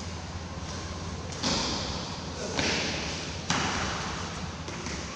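Three sharp smacks about a second apart, each trailing off in a hissy, echoing decay as in a large hall.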